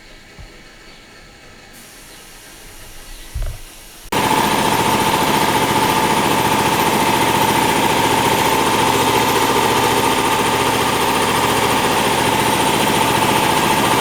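A short thump, then a loud motor-driven machine switches on suddenly about four seconds in and runs steadily with a high hum and a low rhythmic pulsing.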